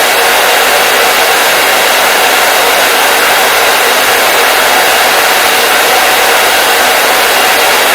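Hair dryer running steadily: a constant, loud rush of air with no change in pitch or level.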